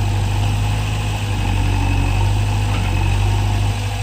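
Diesel engine of a JCB backhoe loader running steadily at low revs with an even, low hum.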